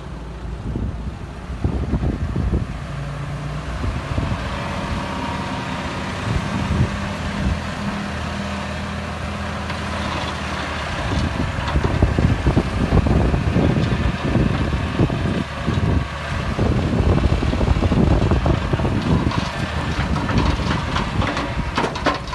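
Heavy construction machine's diesel engine running steadily, then from about halfway louder and rougher, with many short knocks and rattles over it.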